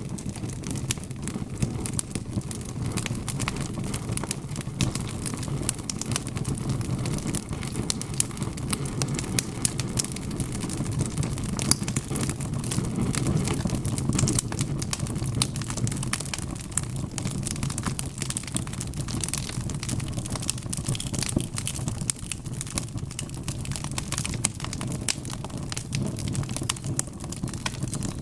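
Wood fire of burning logs in a fireplace crackling with many small, sharp pops over a steady low rumble.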